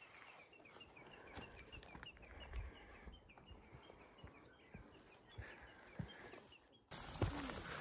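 A songbird calling a rapid series of short, repeated high chirps, about three a second, slowing and thinning out after about four seconds. Near the end a louder rush of background noise starts abruptly.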